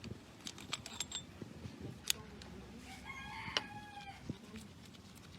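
A rooster crows once, starting about three seconds in and lasting a little over a second, over scattered sharp clicks and knocks.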